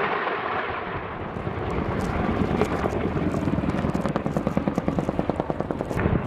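Military helicopter in flight, a steady rush of rotor and engine noise with a rapid, even rotor beat that grows clearer partway through.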